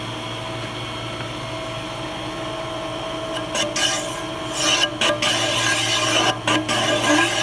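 Lathe motor running steadily, then from about three and a half seconds in a cutting tool scraping against a steel flywheel face in uneven rasping strokes as it is trued up.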